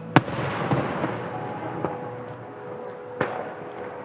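Fireworks bursting: a sharp bang just after the start, then a noisy fading tail with a couple of smaller pops, and a second bang about three seconds in.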